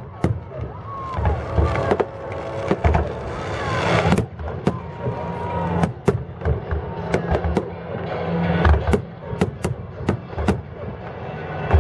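Fireworks bursting in quick succession: deep booming shell bursts mixed with many sharp cracking reports, the cracks coming thicker in the second half.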